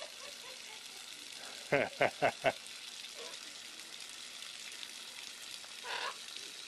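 Water running steadily from an open tap with a hissing sound. About two seconds in, a loud bird call of four quick rising notes, and a short rasping noise near the end.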